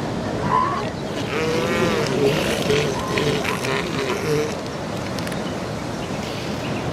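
Steady rush of surf and wind across the beach. Over it, during the first few seconds, come a few short wavering calls from the elephant seal colony.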